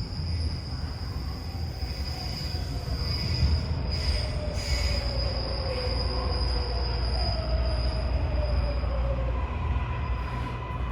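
Inside a MARTA rapid-transit rail car: a steady high wheel squeal over a heavy low rumble, while a motor whine falls in pitch as the train slows. A steady mid-pitched tone takes over near the end.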